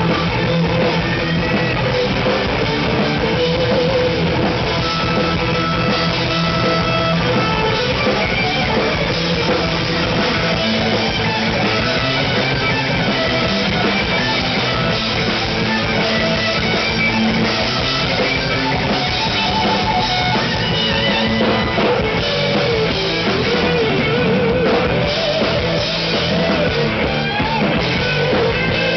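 Live rock band playing an instrumental passage: electric guitars with wavering lead lines over a drum kit, with no vocals.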